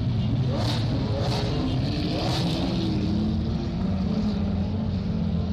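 Lamborghini Aventador V12 engines running at low speed as the supercars roll past, a steady deep exhaust note that rises and falls a little in pitch during the first few seconds.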